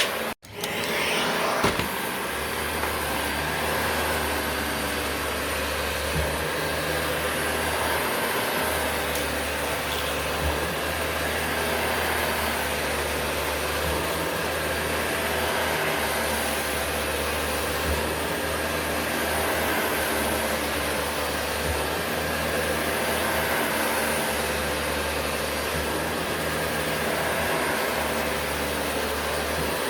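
Vacuum cleaner running steadily, a low hum with a faint high whine over its rushing air. The sound cuts out for a split second just after the start, then carries on unchanged.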